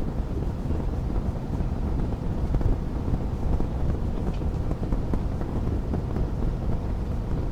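Wood fire burning in a fireplace: a steady low rumble of flames with many small crackles and pops scattered through it.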